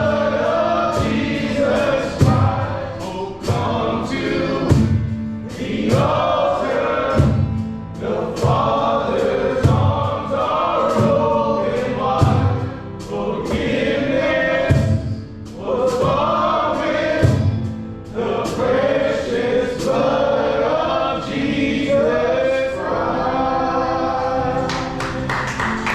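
Gospel-style worship song: several voices singing together over a band, with a low beat about every two and a half seconds.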